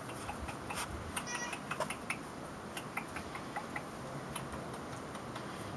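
Great Pyrenees puppies: one brief high squeak about a second and a half in, amid scattered light clicks and ticks.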